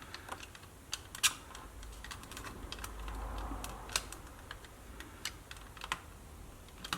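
Plastic case of a Sony WM-B18 Walkman being pried apart, giving scattered small sharp clicks as its snap clips work loose.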